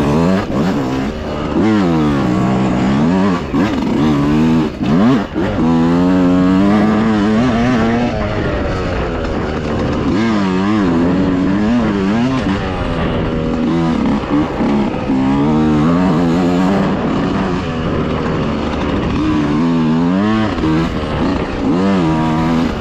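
Dirt bike engine revving up and down as it is ridden, its pitch climbing and dropping over and over every second or two with the throttle.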